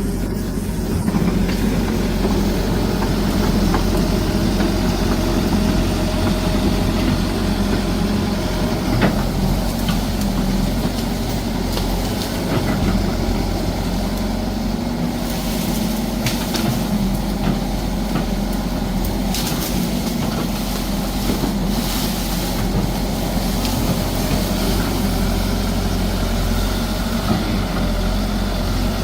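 Excavator's diesel engine running steadily, with a few short sharp knocks and cracks scattered through.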